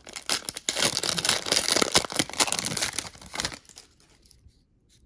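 Trading card pack wrappers being torn open and crinkled, a dense crackling that stops about three and a half seconds in.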